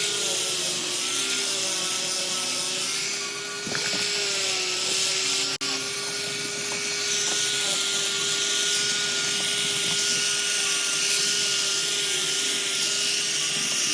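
Small high-speed electric power tool running steadily with a constant whine over a grinding hiss as it works on wood or metal.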